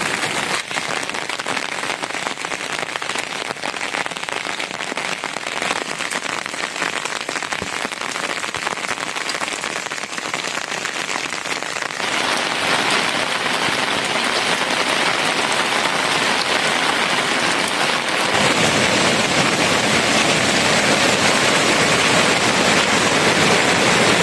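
Steady rain falling, an even hiss with no single drops standing out. It gets louder about halfway through and again, fuller and heavier, a few seconds before the end.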